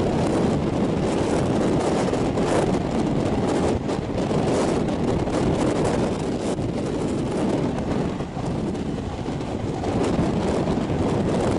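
Passenger train running at speed, heard from on board: a steady rumbling rush of wheels and wind, with wind noise on the microphone.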